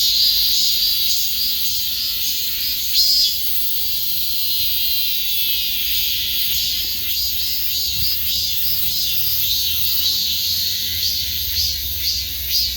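Cicadas singing: a loud, high, buzzing chorus that pulses rapidly near the start and end and holds steadier in between, with a call sliding down in pitch around the middle.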